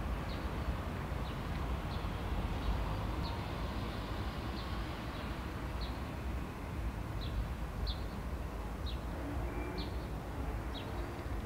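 A small bird chirping, short high chirps repeated about once a second, over a steady low rumble.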